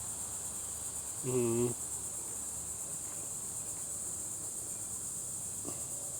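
A chorus of insects, crickets or similar, keeping up a steady, high-pitched buzz.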